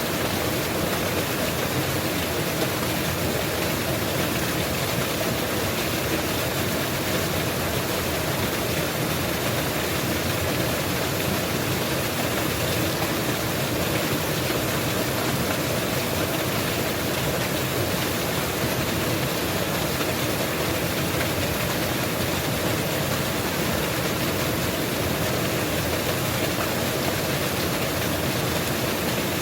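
Mountain waterfall: water falling and rushing as a steady, unbroken roar of noise.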